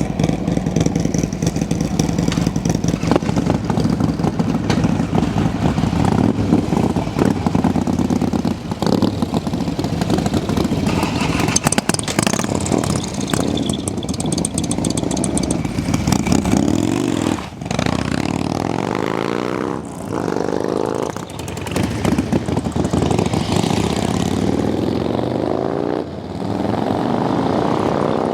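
Harley-Davidson motorcycles, their big V-twin engines rumbling and revving. In the second half the engine pitch rises again and again, with short dips between the sweeps, as the bikes accelerate away.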